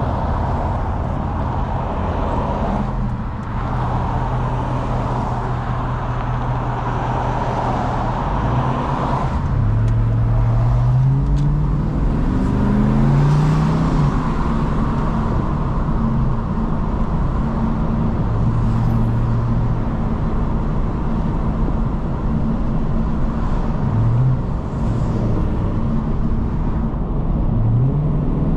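Car engine and road noise while driving. The engine note rises as the car accelerates several times: about ten seconds in, again a couple of seconds later, and twice near the end.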